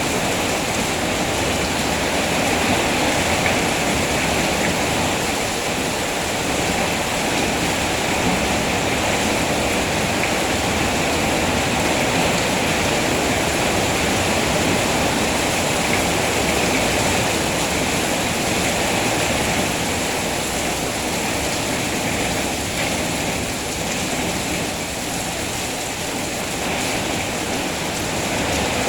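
Steady, heavy rain falling, a continuous even hiss without a break.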